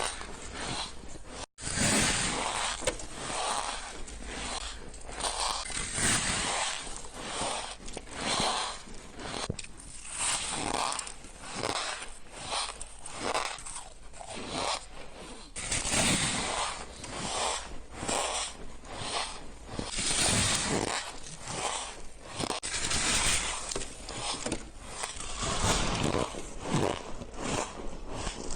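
Bites of shaved ice crunching and being chewed close to the microphone: an irregular run of gritty crunches, about one or two a second.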